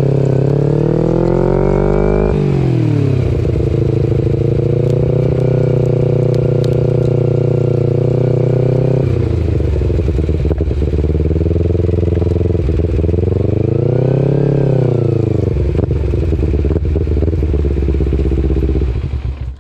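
Kawasaki Ninja 250R parallel-twin engine running through a full Graves race exhaust while being ridden. The revs climb for about two seconds and then fall sharply, as in an upshift. The note holds steady, drops lower about nine seconds in, rises and falls again briefly near fourteen seconds, and fades out at the end.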